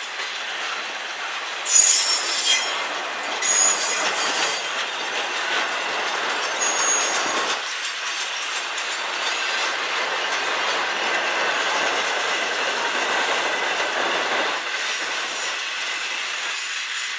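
Freight train cars rolling past with steady wheel-on-rail noise and clatter. High-pitched wheel squeals come loudest about two seconds in and recur a couple of times after.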